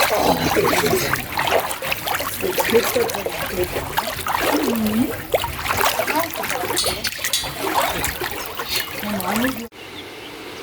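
Running, splashing water with dense trickling and spattering, and a few faint voices in the background; it cuts off abruptly near the end.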